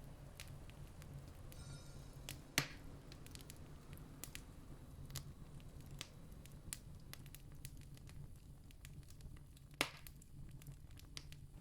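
Campfire crackling faintly with scattered small pops and two louder snaps, one about two and a half seconds in and one near the end, over a low steady rumble.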